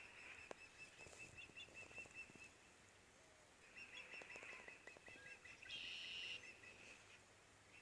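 Faint bird calls: two runs of rapid high chirping, about six chirps a second, with a brief louder, higher call about six seconds in.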